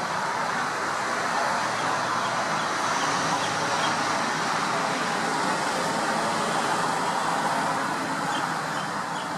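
Enya 80-4C single-cylinder glow-fuel four-stroke model engine running steadily at a constant speed.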